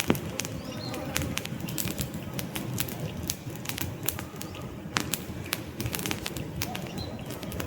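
Wood campfire crackling, with frequent sharp pops over a low, steady rush of flame. Faint bird calls sound now and then in the background.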